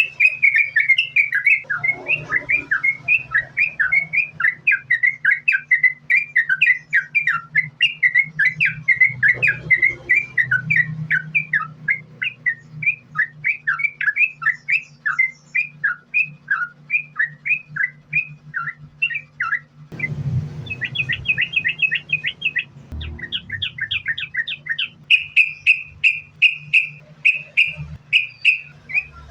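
Yellow-vented bulbul singing a long unbroken run of rapid chirping notes, about three to four a second. About two-thirds of the way through, the notes turn quicker and higher.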